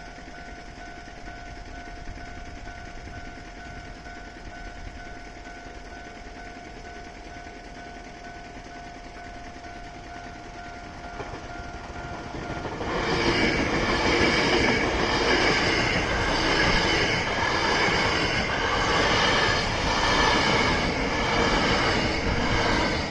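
Level crossing alarm ringing with a steady, repeating electronic tone. About 13 seconds in, an electric commuter train on the Hankyu Senri Line passes close by, loud, with its wheels clacking rhythmically over the rail joints and drowning out the bell.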